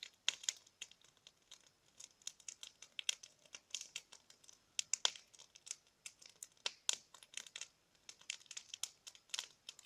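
Bonfire crackling: wood snapping and popping in irregular sharp clicks, with a few louder pops scattered through.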